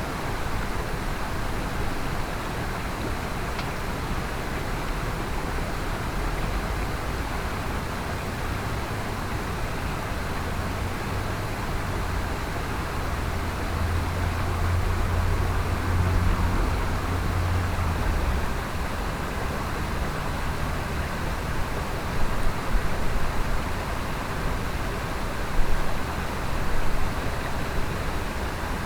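Mountain stream water rushing steadily. A low rumble swells in the middle and cuts off about eighteen seconds in, and a few sharp knocks come near the end.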